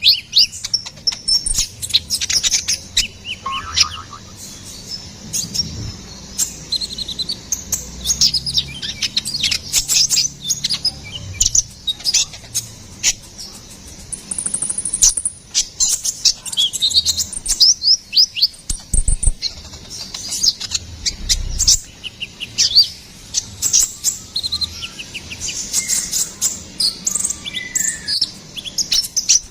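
Van Hasselt's sunbird (kolibri ninja) singing energetically: a long, fast run of high, thin chirps, twitters and quick downslurred notes with hardly a pause.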